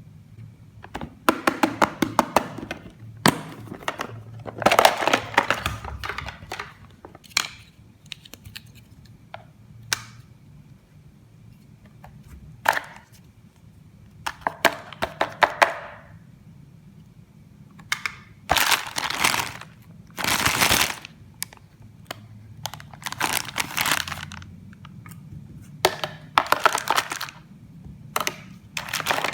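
Plastic toy packaging and plastic toy pieces being handled: repeated crackling, crinkling and sharp clicks in bursts of a second or two with short pauses between them.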